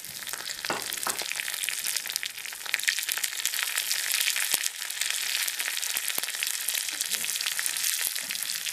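Chopped shallots frying in hot oil with curry leaves in a small tempering pan, a steady sizzle full of small crackles, stirred with a spoon. This is the tempering stage, the shallots browning in the oil.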